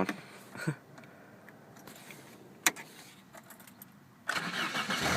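A 1994 Saturn SL2's 1.9-litre four-cylinder engine on a cold start. There is a single click about two and a half seconds in, then about four seconds in the engine starts abruptly and keeps running.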